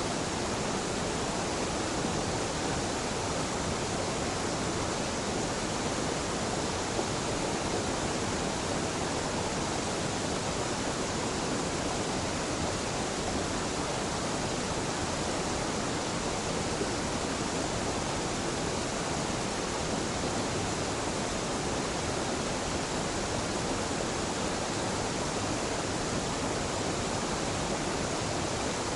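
Small mountain waterfall where two streams meet: water falling and splashing in a steady, even rush without breaks.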